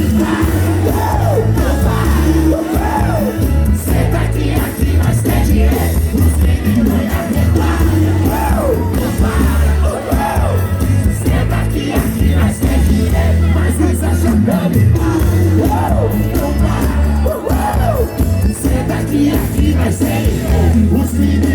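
Live band music played loud through a PA, with a heavy bass line and a crowd shouting over it.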